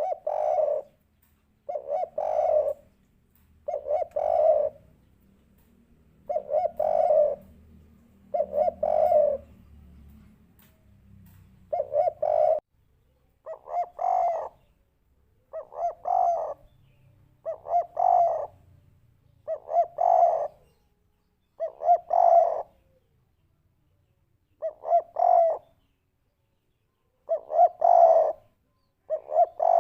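Spotted dove (tekukur) giving its three-note 'kuk 3' coo over and over, one short phrase about every two seconds.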